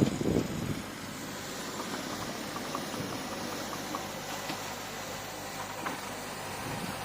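Bulldozer engine running steadily, with a few knocks in the first half second and faint metallic clicks scattered through the middle.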